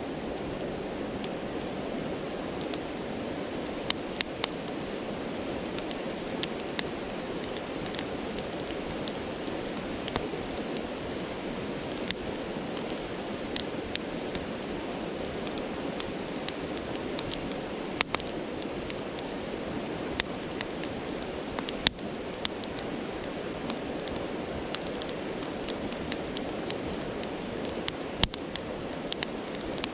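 Steady rushing of a stream with a wood campfire crackling over it in sharp, irregular pops.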